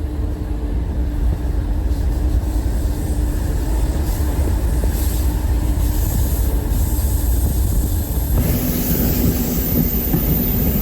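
Passenger train running at speed, heard from on board: a steady low rumble with a humming tone. About eight seconds in, the sound abruptly becomes fuller and harsher.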